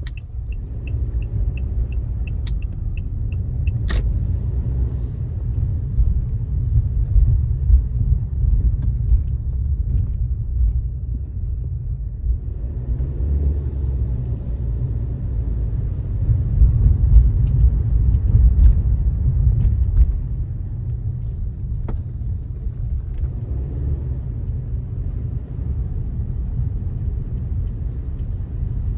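Steady low road rumble of a car driving on wet roads, heard from inside the car, with tyre noise swelling for several seconds midway. A fast, regular ticking runs through the first couple of seconds, and a few sharp clicks stand out, the clearest about four seconds in.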